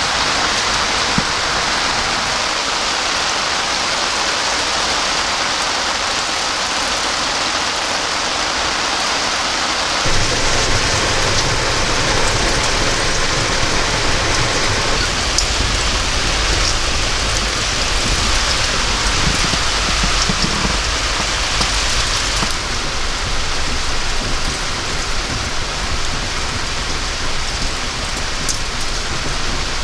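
Heavy rain pouring down steadily. About ten seconds in, a deep low rumble joins it and lasts for roughly twelve seconds.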